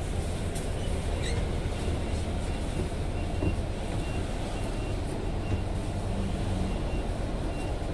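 Steady low engine and road rumble of a moving bus, heard from inside the cabin, with faint short high beeps now and then.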